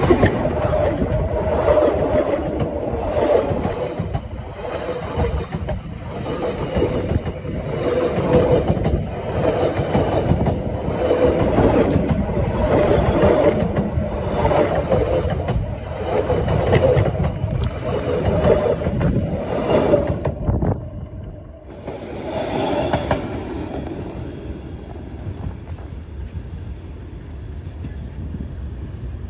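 Passenger train coaches rolling directly over the rails at close range: heavy wheel rumble and clatter that swells in a regular beat about every two seconds as each bogie passes, with a metallic ring in the wheels. After a short break about two-thirds of the way through, the train is heard moving away and fading.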